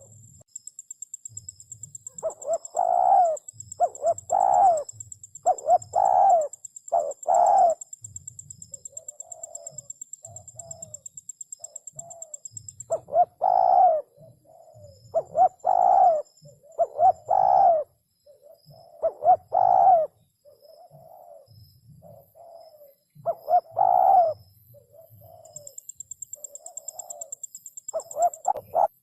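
Spotted dove cooing repeatedly: groups of loud, short coos with a few softer coos in between.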